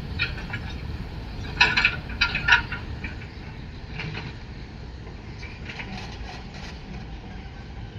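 Freight train wagons running along the track: a steady low rumble with bursts of wheel clatter about two seconds in, growing fainter toward the end.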